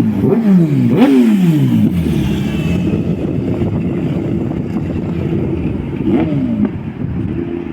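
Motorcycle engine revving hard. Its note slides down twice in the first two seconds, then settles into a steady drone, with one more brief rise and fall about six seconds in.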